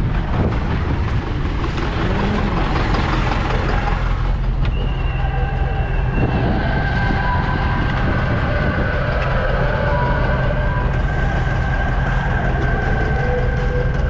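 Heavy diesel farm machinery running steadily under load, with a constant low engine drone. From about five seconds in, several steady high whines sit over the drone.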